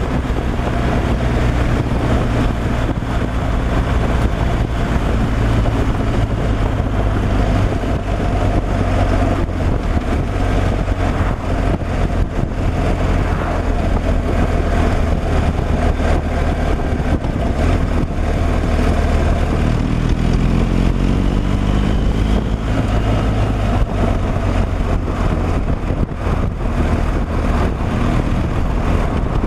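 Truck engine running steadily on the road, a constant low drone with road noise over it.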